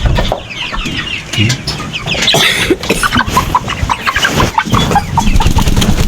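A flock of young chickens clucking and peeping in many short, quick calls while they are being caught by hand, with scattered knocks and scuffling.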